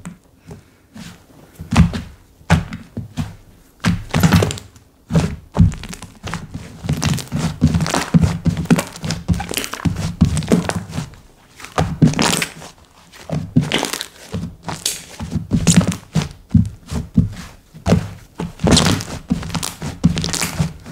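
Slime being squished, pressed and poked by hand, giving an irregular run of sharp squishing clicks and pops, several a second, in busy clusters with short pauses.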